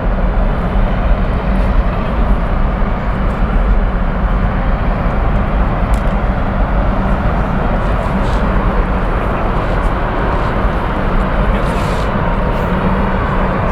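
Jet airliner engines running at taxi power: a steady, loud rumble with a low hum underneath.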